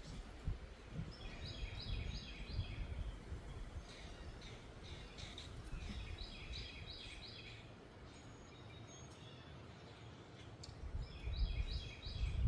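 Wind rumbling and gusting on the microphone, picking up near the end, while a songbird sings the same short phrase of about four repeated notes three times, every four to five seconds.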